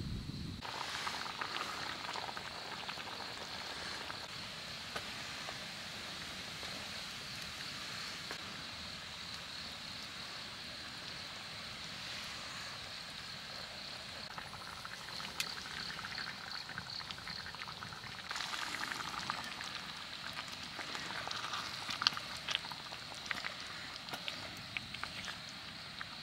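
Food cooking over a campfire: a steady sizzling hiss with scattered pops and crackles, which come more often in the last third.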